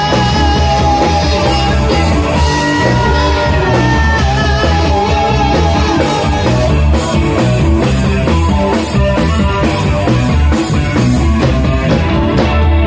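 Rock band playing live, with guitar, bass and drum kit, in a passage without lyrics.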